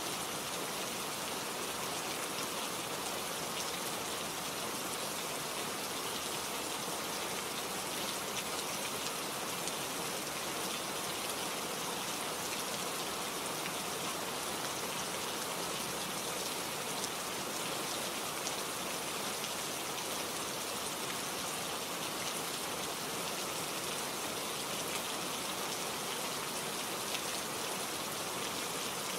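Steady rain falling, a dense even hiss with fine drop patter on leaves.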